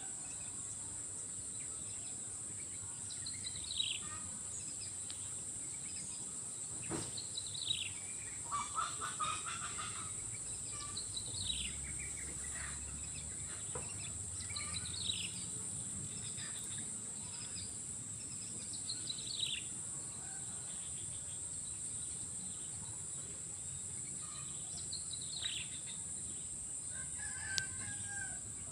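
Steady high-pitched insect drone, with a bird repeating a short call that slides downward in pitch every three to four seconds.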